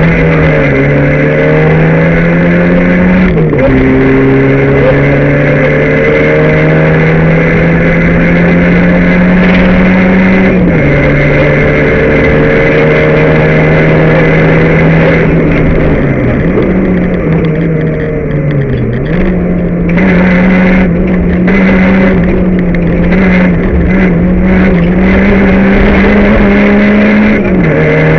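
Rally car engine heard from inside the cabin, pulling hard. The revs climb steadily and drop sharply at each gear change, twice early on and again near the end. Around two-thirds of the way through the engine note falls as the car slows for a bend, stuttering on and off the throttle before pulling again.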